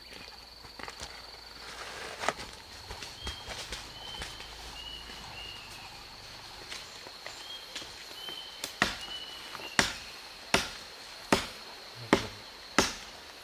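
A blade chopping: a run of six sharp strokes a little under a second apart in the second half, with a few scattered knocks before them, over a steady high whine and short chirps.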